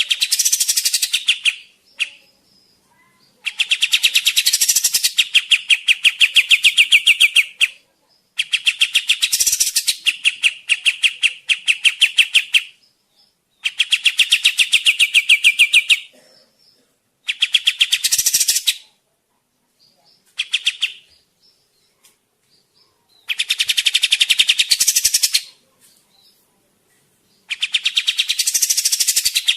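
Kapas tembak bird song: runs of rapid, evenly repeated high notes, each run lasting a few seconds, with short pauses between them, about seven long runs and a couple of brief ones. It is a lure (pikat) recording of a bird in full song (gacor).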